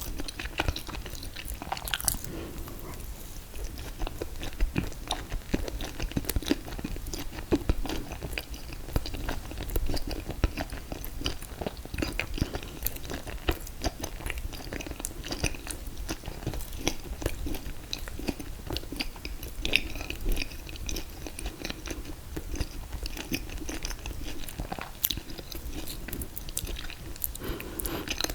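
Close-up chewing and biting of ice cream cake made of confetti cake and mint chocolate chip ice cream, with frequent small crunches and wet mouth sounds.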